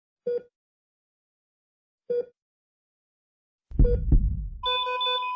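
Electronic soundtrack: short identical synth blips about two seconds apart over dead silence, then a deep bass hit near the end, followed by a steady high tone pulsing like an alarm beep.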